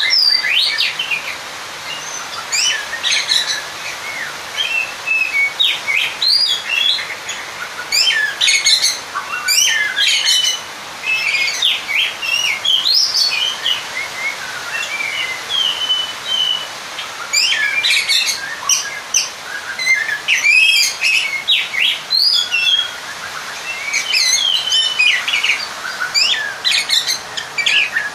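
Oriental magpie-robin (kacer) singing a fast, varied run of chirps, trills and whistled notes without pause. This is the agitated challenge song of a male calling out a rival, the kind that makes another magpie-robin answer and fight.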